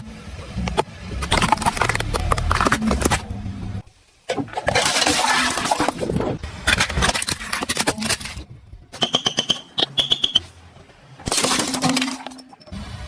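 A car rolling over and crushing objects, with dense crackling and crunching that comes in several short bursts cut off abruptly. About two-thirds of the way through, a short high squeak sounds twice.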